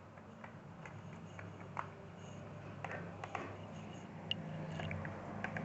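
Faint, scattered small clicks and taps of laptop parts being handled during disassembly, over a low steady hum.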